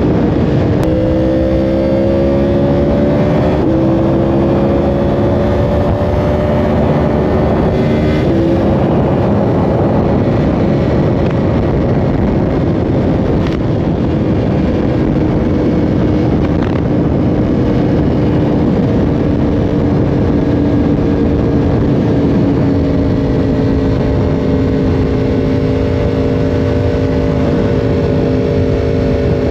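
Yamaha R1 sportbike's inline-four engine running hard at speed. Its pitch shifts in steps about one, four and eight seconds in, then holds nearly steady and slowly sinks, under a dense, steady rush of wind and road noise.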